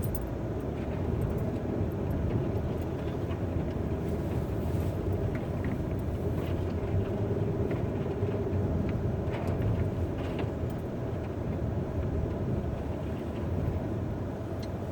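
Car engine running steadily, a low drone, as the car struggles for grip on a snowy hill on all-weather tires.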